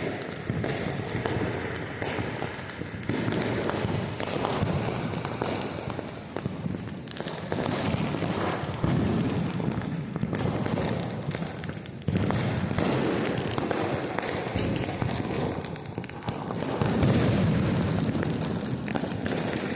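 Many firecrackers and fireworks going off without pause: overlapping bangs and crackling blend into a continuous rumble, with louder surges about 8, 12 and 17 seconds in.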